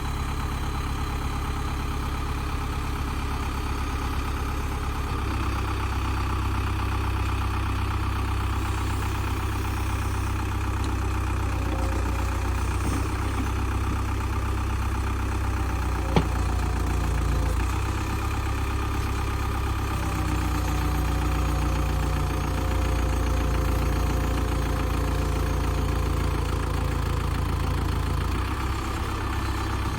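Old tractor backhoe's engine running steadily, its engine note shifting a few times, with one sharp click about halfway through.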